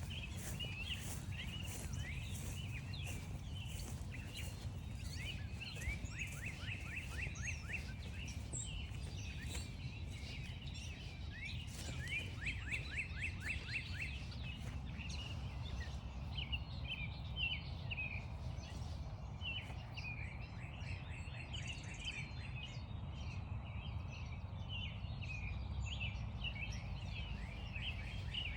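Several songbirds singing, with chirps and quick runs of down-slurred notes, over a low steady outdoor rumble. During the first third, footsteps crunch on frost-stiffened grass at an even walking pace.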